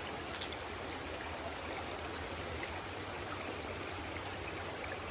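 Flowing stream water, a steady even rush with one brief tick about half a second in.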